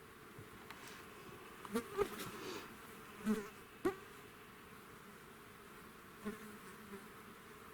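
Insects buzzing: a few short, close buzzes about two, three and four seconds in and again near six seconds, over a steady faint high hum.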